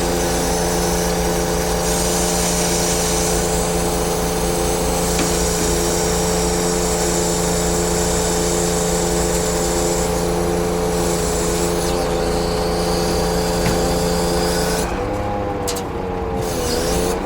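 Scania truck's diesel engine running steadily, its pitch wavering and dipping about fifteen seconds in.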